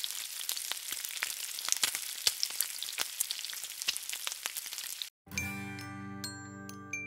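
Food sizzling and crackling in hot oil, cutting off abruptly about five seconds in. After a brief silence, light music starts: a chiming mallet-percussion melody over sustained low notes.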